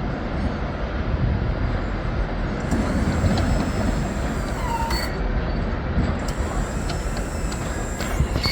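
A train running slowly through a station with a steady low rumble. About halfway through and again near the end come a few brief high squeaks and clicks.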